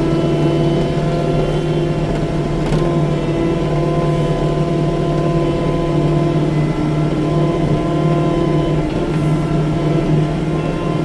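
Compact track loader's engine running steadily at a constant speed, with an even, unchanging drone and no revving.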